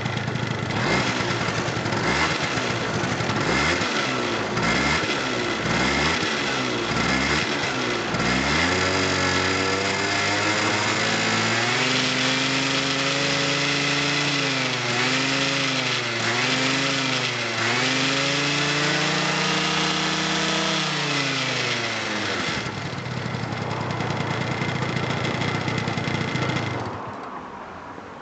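Honda Live Dio ZX scooter's 50cc two-stroke single running: blipped several times in quick rises and falls, then held at higher revs with repeated dips for about a dozen seconds, then settling back to idle before dying away near the end.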